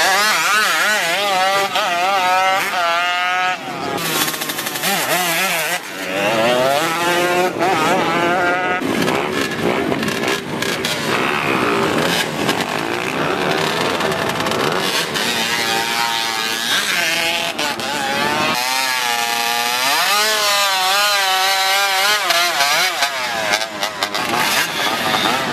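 Two-stroke motorcycle engines revving hard. The pitch rises and falls over and over in quick warbling sweeps, with a few brief dips between runs.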